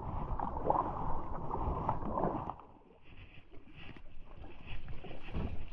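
Kayak being paddled hard: water sloshing and splashing around the paddle and hull, with a low uneven rumble on the microphone. It drops off briefly about halfway through, then the water noise resumes more faintly.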